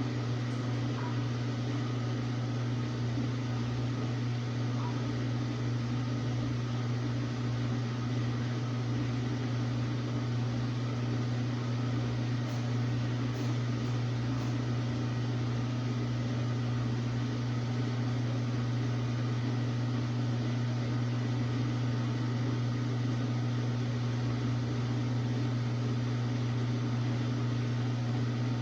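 Samsung WA45T3200AW top-load impeller washer running with a steady, unbroken motor hum.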